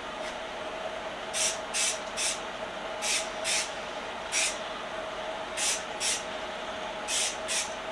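Aerosol spray paint can hissing in short blasts, about ten of them in quick pairs and threes, as neon paint is sprayed onto vise parts.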